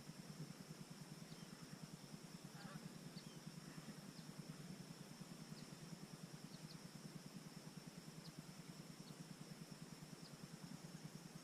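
Near silence: faint outdoor ambience, with a steady high thin drone, a few short high chirps, and a low, fast, even flutter underneath.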